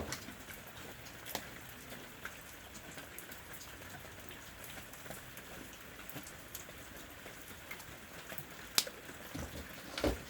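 Pens being handled and tried out on paper: faint scattered ticks and light taps over a quiet hiss, with one sharp click about nine seconds in.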